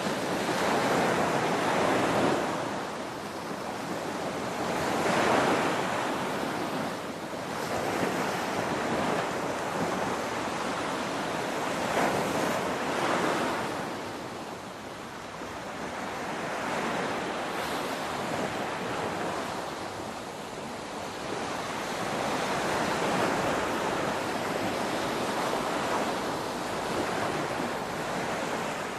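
Ocean waves breaking and washing on a shore: a continuous rushing surf that swells and eases every few seconds.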